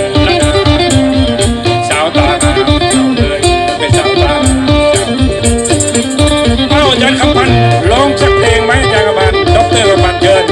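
Live Isan folk music with a fast steady drum beat and a rattling shaker, under the melodies of the phin lute and the khaen mouth organ.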